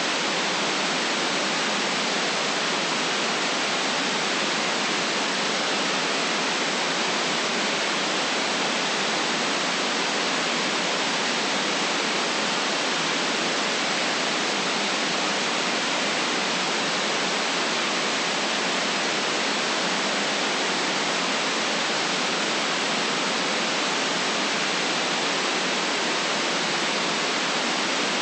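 Steady white noise, an even, unchanging hiss with the deep bass and the highest treble cut away.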